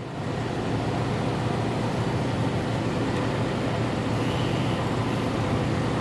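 Diesel engine of a 2014 Freightliner Cascadia semi truck idling, a steady low rumble that swells slightly in the first moment and then holds even.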